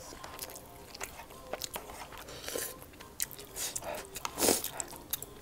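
Close-up eating sounds of one person biting and chewing food, with many short wet clicks and one louder bite about four and a half seconds in.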